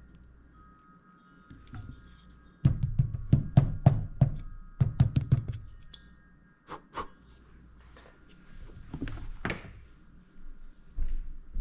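Tools and small parts being handled on a workbench: a quick run of clicks and knocks lasting about three seconds, starting a few seconds in, then a few separate taps later.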